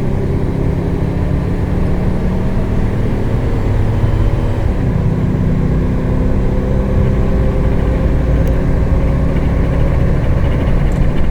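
Isuzu reefer truck's engine running at full throttle on the road, pulling up toward its governed top speed. Its pitch drops briefly about four and a half seconds in, then climbs slowly again.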